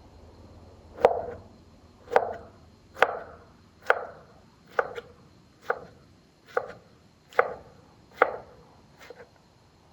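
A kitchen knife chopping on a wooden cutting board in slow, even strokes, about one a second, ten chops in all. The last chop is lighter and doubled.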